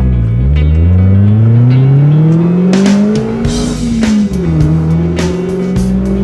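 Supercharged Subaru Sambar engine and aftermarket exhaust accelerating: the pitch climbs steadily for about four seconds, drops sharply at a gear change, then climbs slowly again in the next gear. Music plays underneath.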